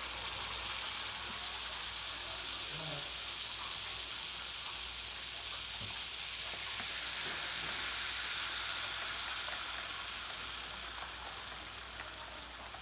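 Cake batter frying in hot oil in a pan: a steady, loud sizzle that eases off slightly near the end.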